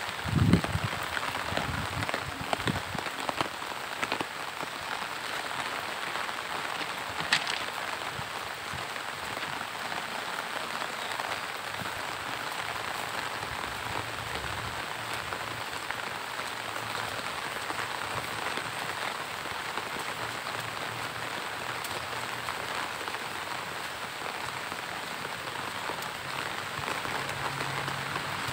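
Steady monsoon rain falling, an even hiss of drops. There is a low thump just after the start and a short sharp tick about seven seconds in.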